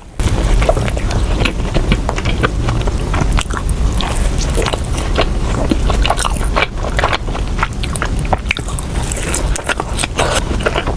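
Close-miked biting and chewing of a soft glazed doughnut: a dense, irregular run of small clicks and smacks.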